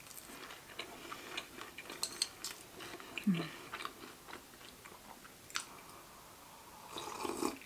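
Close-miked chewing of a mouthful of bibimbap, with small wet mouth clicks, and a short hummed "mm" about three seconds in. Near the end comes a sip from a container of radish and beef soup.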